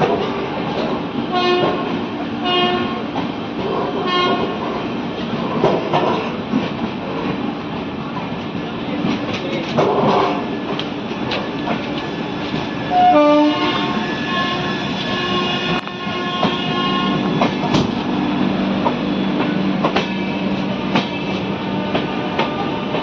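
Express train running through a railway station, a steady rumble and clatter of wheels and coaches, with several short horn blasts in the first few seconds and a longer horn sound about 13 seconds in.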